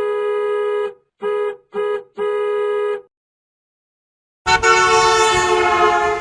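Car horn honking in a pattern: a long honk, two short ones and another long one. After a short pause comes a single longer, brighter horn blast.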